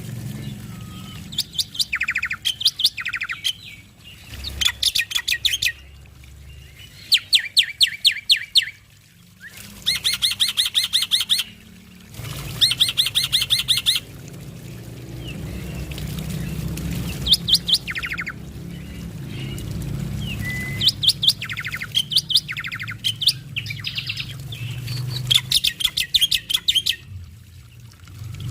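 Male black-winged starling (jalak putih) singing: loud chattering song in short rapid runs of repeated high notes, a new run every second or two. A steady low hum runs underneath.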